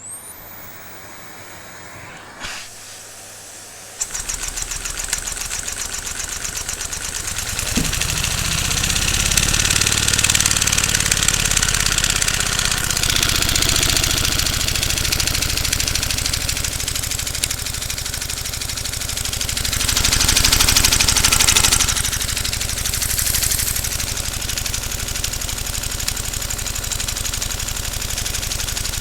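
Single-cylinder LEGO vacuum engine with a big flywheel starting about four seconds in. It picks up speed over the next few seconds, then runs fast with a rapid, steady beat of strokes.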